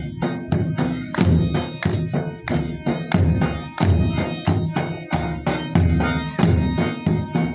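Traditional attan dance music: a drum beating a steady rhythm of about two to three strokes a second under a held, pitched melody line.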